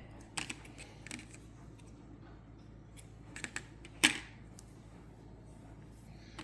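Scattered light clicks and handling noises as crochet work is handled, with one sharper click about four seconds in.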